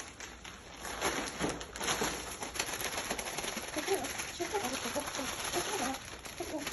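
Plastic zip-top bag crinkling and rustling as a chicken drumstick is put into the coating mix and handled. In the second half there are short scattered chirp-like calls.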